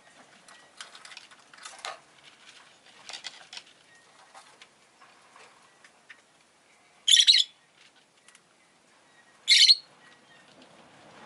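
Rosy-faced lovebird giving two short, loud, high-pitched calls about two and a half seconds apart, over faint rustling and scratching.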